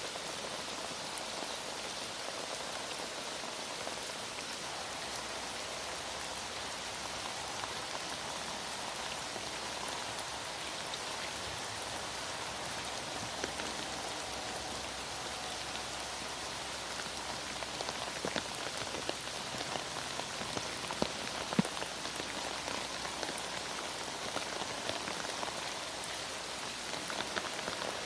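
Heavy rain falling steadily, an even hiss with a few sharper ticks of drops about two-thirds of the way through.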